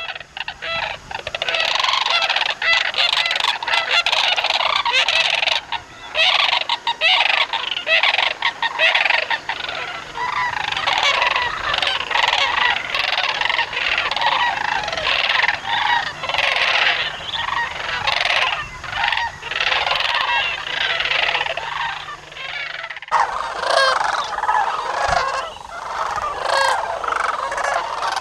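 A large flock of geese calling, a dense, continuous chorus of many overlapping honks. The sound changes abruptly about 23 seconds in, as at a cut.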